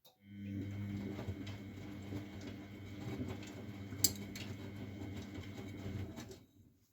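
Miele Novotronic W912 washing machine working for about six seconds: a steady electrical hum under a noisy wash of small clicks and rattles, with one sharper click about four seconds in. It starts and stops abruptly.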